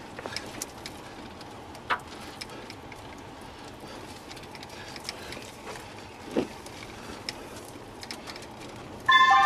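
Steady low background noise with scattered faint clicks. About nine seconds in, a loud electronic tone with several pitches at once starts and holds.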